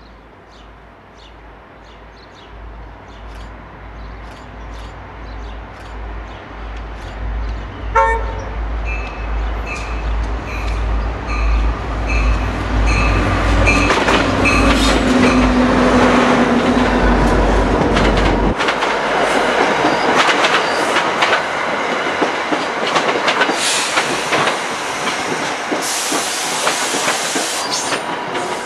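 NJ Transit diesel commuter train approaching with a low rumble that grows louder, its bell ringing and a horn note sounding. It then passes close by with loud wheel clatter, and high wheel squeal comes near the end.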